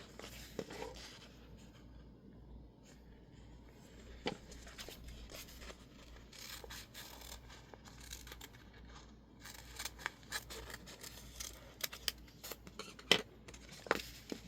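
Illustrated masking tape and a label sheet being handled and stuck down: crisp paper rustles, scratches and small taps, growing busier with a few sharper clicks in the last few seconds.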